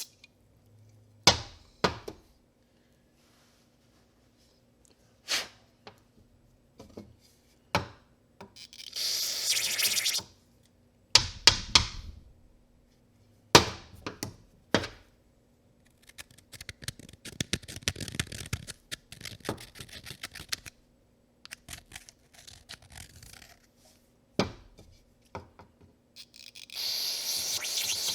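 Tools and metal parts clinking and knocking during repair work, with a stretch of rapid scratching in the middle. Two hissing bursts of spray, each lasting a second or two, come about a third of the way in and again near the end.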